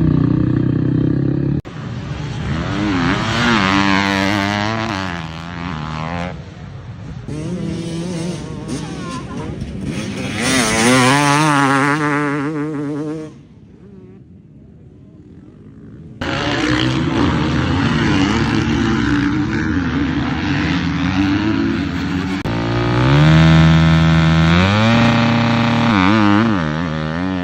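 Motocross bike engines revving, their pitch climbing and dropping again and again as the throttle opens and shuts, in several clips cut together. A quieter stretch of about three seconds falls a little past the middle.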